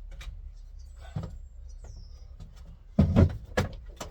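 A small stool being set down and stepped onto: a light knock about a second in, then two heavy thumps about three seconds in.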